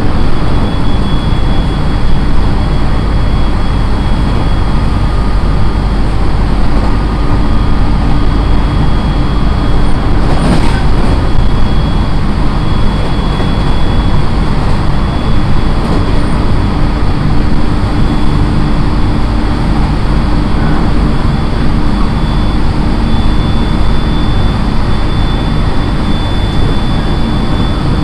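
Cabin running noise of a JR East 701-series electric multiple unit at steady speed: a loud, even rumble of wheels on rail with a steady high tone held above it. One sharp knock comes about ten seconds in.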